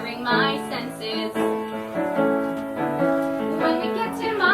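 Piano accompaniment to a show tune, playing sustained chords, with brief snatches of a woman's singing voice near the start and near the end.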